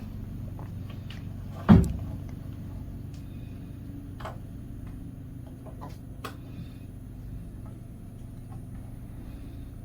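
E-bike charger and its cord being handled while fitting them together: one loud knock about two seconds in, then a few small clicks and taps, over a steady low hum.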